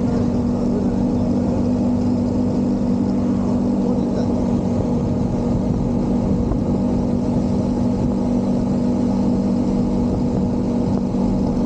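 Motorcycle engine running at a steady cruise, a constant hum with wind and road noise over it.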